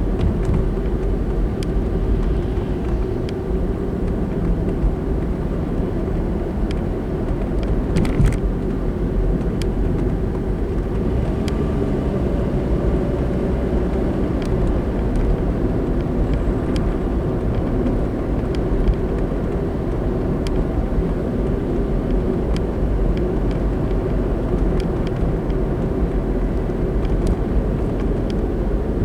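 Road and engine noise of a car driving, a steady low rumble, with a few faint ticks and a brief knock about eight seconds in.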